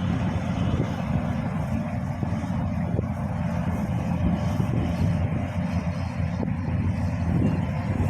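Kubota DC combine harvester's diesel engine running steadily under load while cutting rice.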